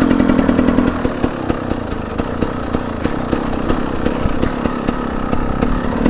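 KTM 300 EXC two-stroke dirt bike engine under way. The engine note is higher in the first second, then eases off and holds at a lower, uneven note with small rises.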